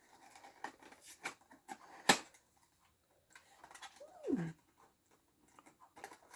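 A cardboard blind box and its packaging being handled: scattered light clicks and taps, the sharpest about two seconds in, with a brief falling sound a little past the middle.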